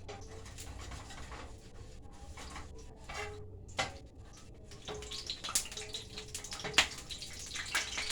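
Parrot fish frying in hot coconut oil, crackling with scattered sharp pops that grow denser and louder in the second half. The popping is what the cook puts down to the fish not being dried properly.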